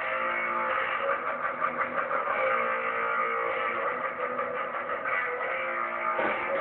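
Guitar music playing through the speakers of a motorcycle-mounted sound system, its sound thin and cut off above the upper treble.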